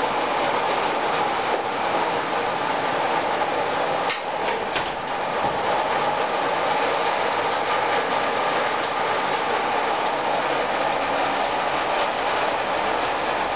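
Heavy thunderstorm rain pouring down in a steady, unbroken rush, with a few faint clicks about four seconds in.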